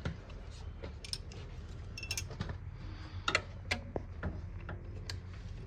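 Scattered small metallic clicks and clinks of tools and wiring parts being handled while the ignition is rewired, over a steady low hum.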